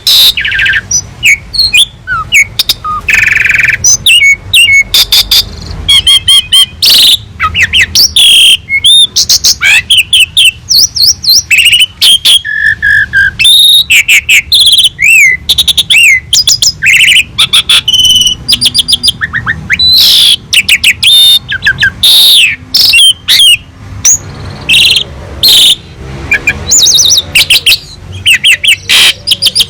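Asian pied starling (jalak suren) singing continuously: a loud, rich, varied song of whistles, chirps and rapid trills, packed with many different fill phrases.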